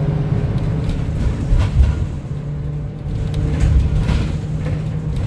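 Inside a 2025 Gillig 40-foot CNG transit bus under way: the natural-gas engine drones steadily under road noise, with a few short knocks and rattles from the body about a second and a half in and again near four seconds.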